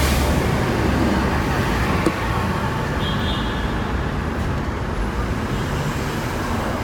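Hong Kong double-decker tram running through the street, a steady rumble mixed with the noise of road traffic around it, with a single sharp knock about two seconds in.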